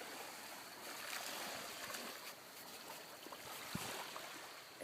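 Small bay waves lapping and washing at the shoreline: a steady, soft watery hiss.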